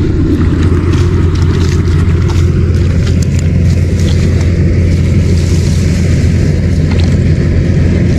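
A motor engine running steadily at one speed, a loud low drone with no change in pitch.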